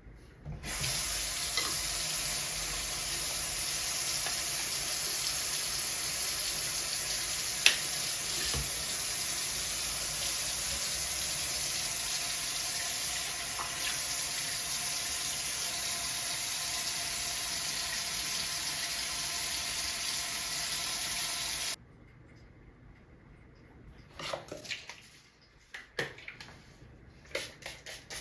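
Water running steadily from a tap into a sink, a constant rushing hiss that stops abruptly about three-quarters of the way through, followed by a few light taps and clicks.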